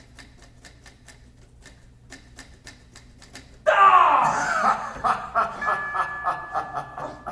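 Faint even ticking, about four ticks a second. About halfway through, a single voice breaks in with a sudden loud, laugh-like cackle whose pitch falls away. Held musical tones come in under it near the end.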